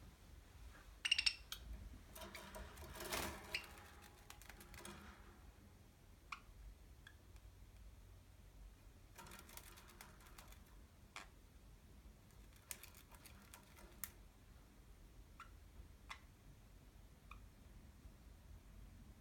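Budgerigars moving about a cage: faint scattered clicks and taps, with a brief louder sound about a second in and a rustle around three seconds in.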